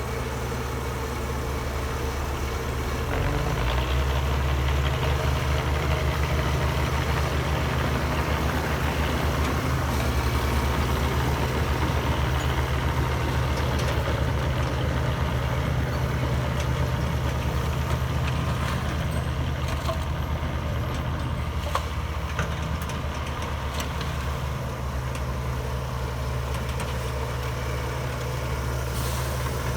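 Heavy diesel engine of earthmoving machinery running steadily with a deep drone. It works harder and gets louder about three and a half seconds in, then eases back a little near the end.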